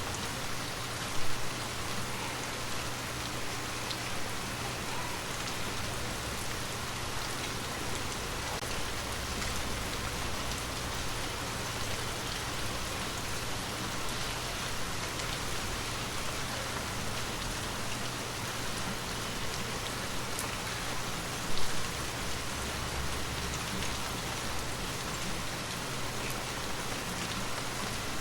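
Gentle steady rain falling and pattering on surfaces, with scattered individual drops. Two brief louder knocks stand out, one about a second in and one about three-quarters of the way through.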